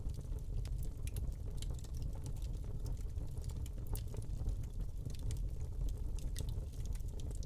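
Wood fire burning in a fireplace, crackling: irregular sharp pops and snaps over a low steady rumble of the flames.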